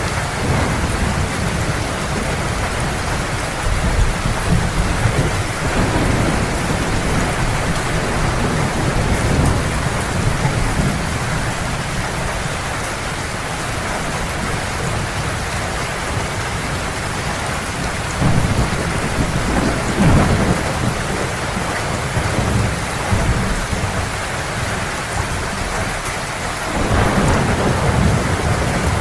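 Heavy rain falling steadily, with rolling thunder rumbling low underneath that swells several times, most strongly about two thirds of the way through and again near the end.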